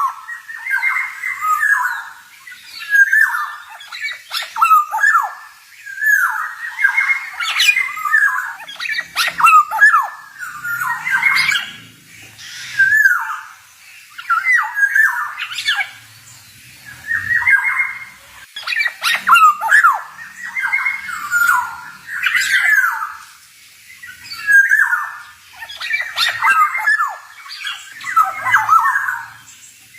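Male black-naped oriole (kepodang) singing: short slurred whistled phrases mixed with harsher notes, repeated every second or two with brief pauses between.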